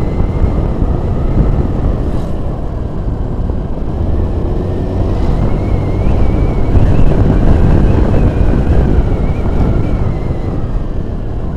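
A vehicle running along a road, with engine and road noise and a heavy low rumble. It grows louder in the middle and eases off near the end, with a faint wavering whine above it.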